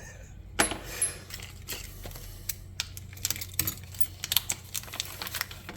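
Small metal and plastic parts from an RC hinge pin kit clicking and clinking together as they are handled and sorted, in a loose run of light taps that grows busier in the second half.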